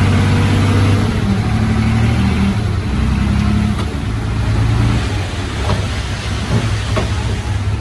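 Heavy diesel engine of earthmoving machinery running under load, its engine speed rising and falling several times.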